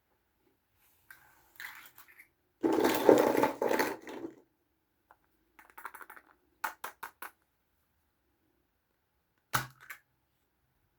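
Small plastic toys and their packaging being handled: a loud crinkling rustle about three seconds in, softer rustles, then a quick run of four sharp plastic clicks and one more click near the end.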